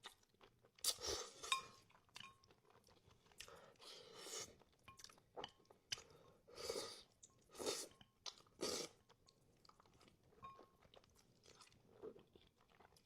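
Close-miked chewing and slurping of spicy Buldak instant noodles, with irregular wet mouth sounds and smacks.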